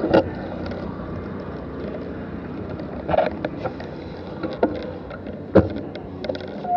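Steady outdoor background noise with scattered sharp knocks and clicks, the loudest about five and a half seconds in.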